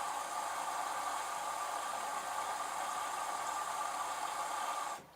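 LG F1222TD direct-drive washing machine running in its babycare prewash stage, a steady whirring noise. It cuts off abruptly about five seconds in.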